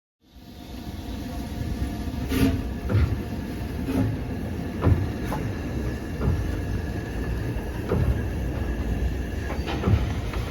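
Railway rumble with irregular heavy clanks about once a second, starting abruptly.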